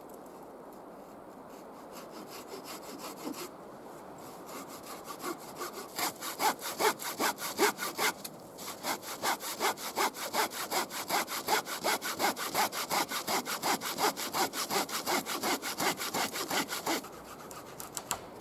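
Hand saw cutting through wood in steady back-and-forth strokes, about three a second, with a couple of short pauses before it stops near the end.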